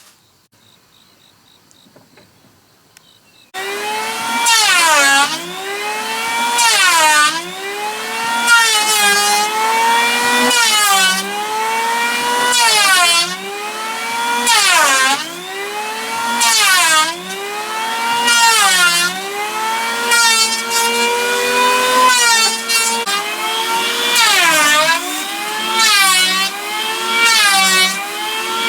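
Power wood planer working along a log. From about 3.5 s in the motor runs loud, and its pitch drops and recovers about every two seconds as the blades bite into the wood on each pass.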